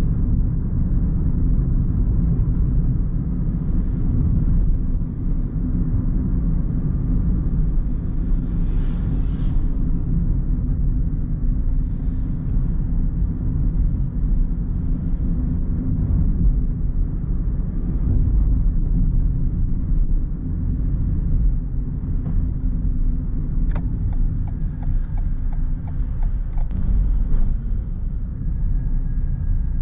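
Steady low rumble of a moving car's engine and tyres on the road, with a few faint ticks in the second half.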